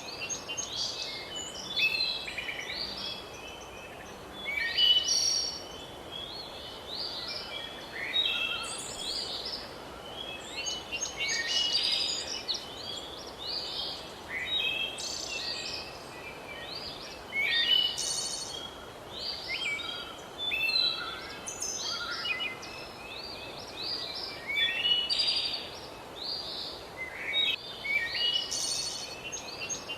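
Several songbirds chirping and singing in many short, overlapping calls, over a steady background hiss.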